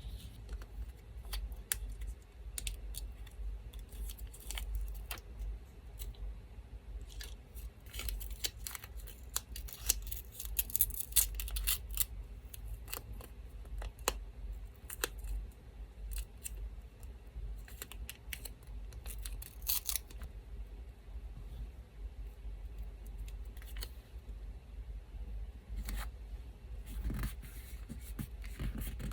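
Scissors snipping paper in many short cuts, with bursts of paper rustling. Under them runs a steady low hum from an electric fan.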